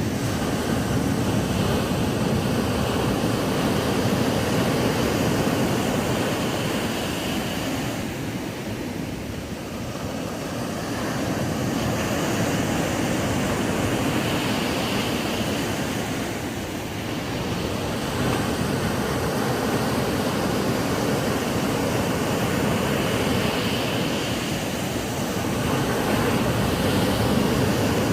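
Ocean waves breaking and washing up a sandy beach: a continuous rush of surf that swells and eases roughly every eight seconds.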